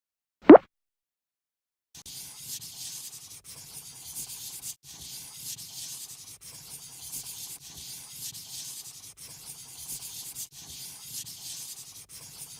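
A short, loud pop, then a marker or coloring pencil rubbing on paper in long colouring strokes from about two seconds in, a scratchy hiss broken by short pauses about every second and a half.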